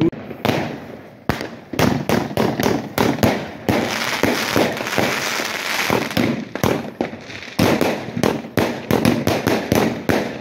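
New Year's Eve fireworks and firecrackers going off in rapid, irregular succession: many sharp bangs overlapping with crackling.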